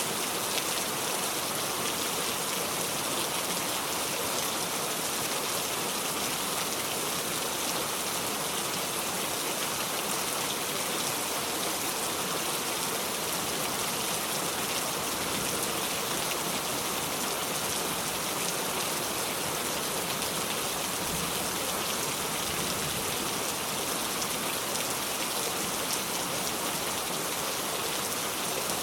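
Steady heavy rain falling, an even hiss of rain on surfaces without thunder.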